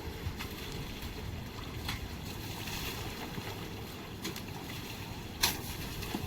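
Steady wash of river water with wind on the microphone, broken by a few short sharp knocks or splashes, the loudest about five and a half seconds in.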